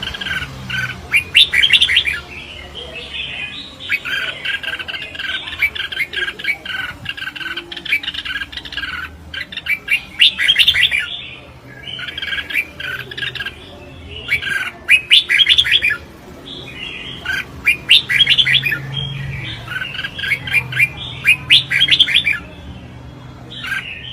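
Red-whiskered bulbul singing in competition-style song: bursts of quick, loud chirping phrases repeated every second or two with short pauses between.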